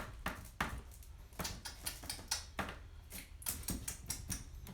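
Small plastic toys being handled and tapped on a hard surface: a string of light, irregular clicks and taps.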